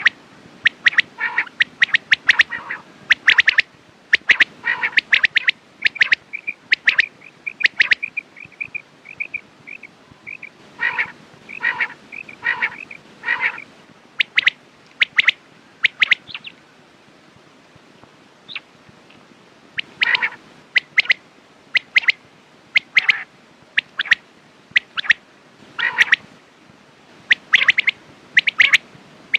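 Quail calling over and over: short, sharp calls in clusters, with a run of quick high notes early on and a short lull a little past the middle.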